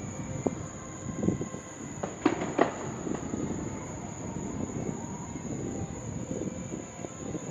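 Fireworks going off at a distance: a steady low rumble of booms, with two sharp bangs in quick succession about two and a half seconds in.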